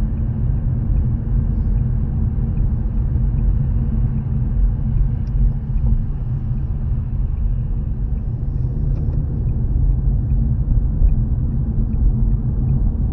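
Steady low rumble of a car's engine and tyres on the road, heard from inside the moving car, with a faint regular ticking over it.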